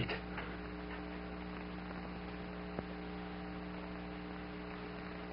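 Steady electrical mains hum with a faint hiss, with one short click a little past halfway.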